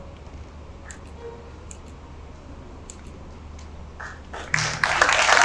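Quiet hall tone with a few faint clicks, then an audience suddenly breaks into loud clapping and cheering near the end.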